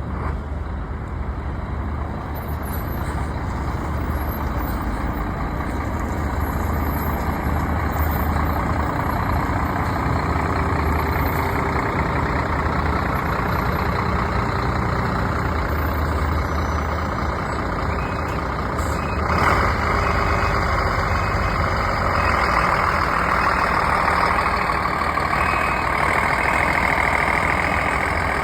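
Scania K340 bus engine running, its low note shifting several times as engine speed changes. A short sharp burst of noise comes about two-thirds of the way through, and a higher whine-like band grows stronger near the end.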